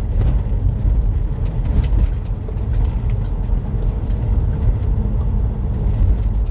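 Steady road and engine rumble inside a moving car's cabin, heavy in the low end, with small faint ticks.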